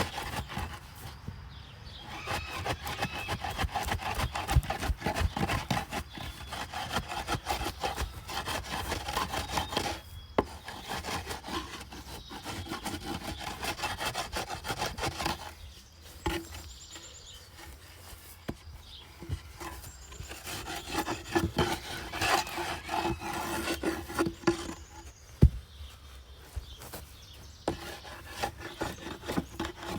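Irregular scraping and rubbing with scattered knocks and clatters, as of hand work on rough material.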